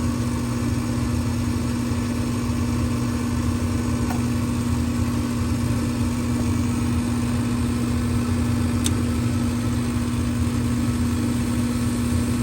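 Gas furnace draft inducer fan motor running with a steady hum during the ignition trial, with a faint tick about nine seconds in.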